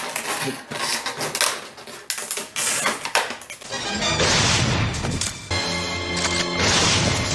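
Quick clicks and rattles of a toy's plastic packaging being handled, then music with repeated heavy crash-cymbal hits comes in about four seconds in.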